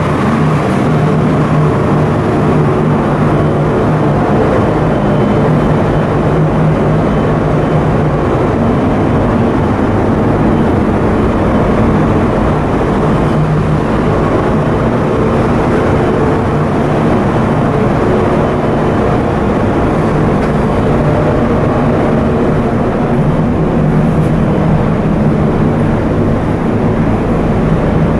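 Coastal cargo ship under way on sea trial: a loud, steady drone of diesel machinery with an even low hum that does not change.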